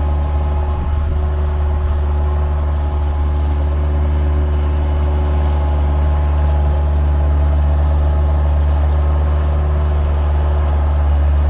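An engine running steadily at a constant speed, a deep, even drone.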